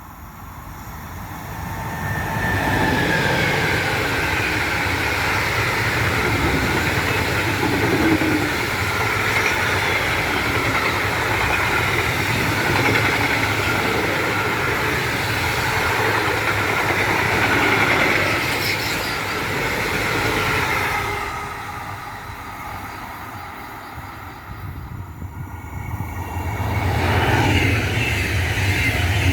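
A freight train of coal wagons hauled by a DB Class 185 electric locomotive passes at speed, its wagons rolling by steadily with a high ringing from the wheels, then fading about 21 s in. Near the end a second train, a regional express, approaches and grows loud.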